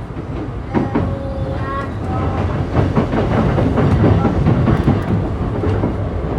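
E235-1000 series electric train running, heard from inside the car: a steady rumble of wheels on rail with clacks over rail joints. A few short steady tones, typical of the traction motors' whine, come about a second in.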